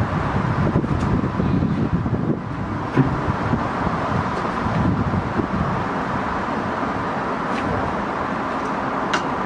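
Steady wind rumbling on the microphone, with a few faint clicks.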